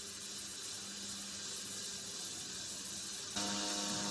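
Compressed air hissing steadily as it is blown at an apple to spin it. About three and a half seconds in, the hiss gets louder and a steady hum joins it as the apple spins up.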